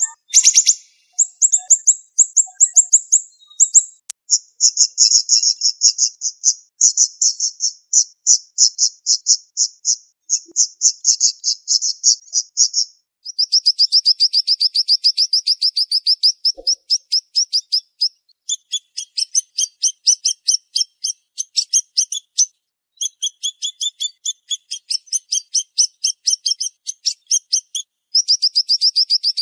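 Siri-siri bird singing: fast, tightly packed trains of sharp, high-pitched repeated notes, in bouts of several seconds separated by short pauses. There is a brief click about half a second in.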